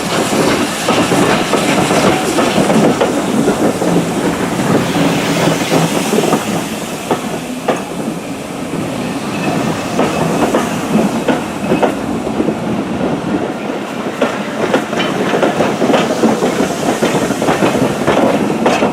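Steam-hauled train's coaches rolling by, wheels clattering over rail joints with a dense run of clicks.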